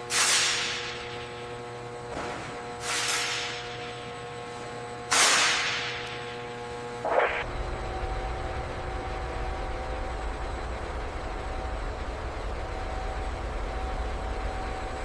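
Three loud bursts of hissing air about two and a half seconds apart, each fading away over about a second, then a short sharp clank-like burst about seven seconds in. After that a steady low mechanical hum carries on.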